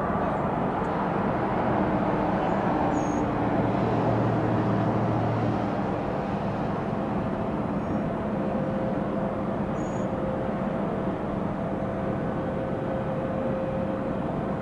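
Jet airliner engines running steadily, a broad noise with low hum tones, swelling a little a couple of seconds in and easing after about six seconds. A few faint high chirps sound over it.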